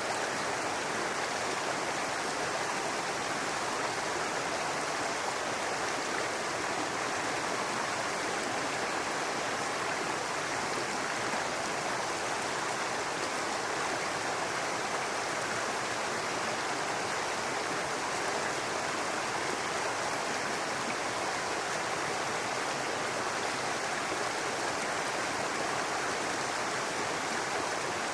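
Brook water babbling and rushing over rocks, a steady even wash of flowing water.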